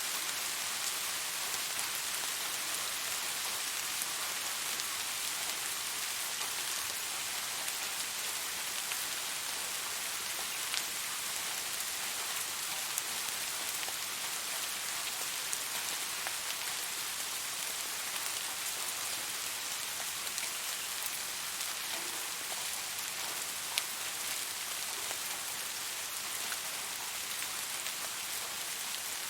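Steady rain falling, an even hiss with a few louder individual drops standing out now and then.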